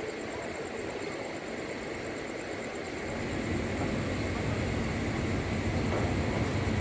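Passenger train rolling slowly along a station platform, heard from inside the carriage: a steady running rumble that grows gradually louder partway through.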